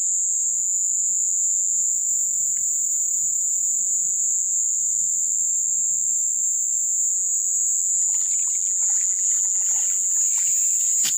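A steady, high-pitched chorus of insects. From about eight seconds in there is water splashing and sloshing as a fishing net is dragged through the river, ending with a sharp click.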